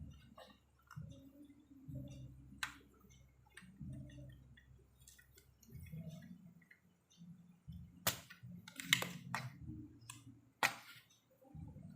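Scattered sharp clicks and light knocks, several in quick succession past the middle, over a low background hum.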